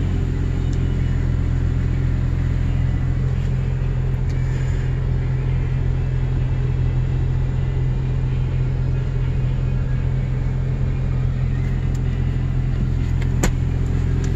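Porsche 911 Turbo's turbocharged flat-six engine idling with a steady low rumble. A single brief click near the end.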